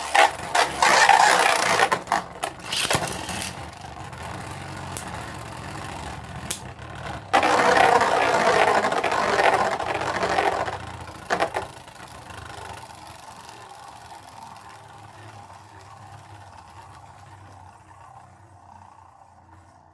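Two Beyblade Burst tops spinning and clashing in a plastic stadium. Loud clattering hits come in the first few seconds, then a long grinding clash from about seven to eleven seconds in, ending with a few sharp clicks. After that the tops whir steadily and slowly lose spin.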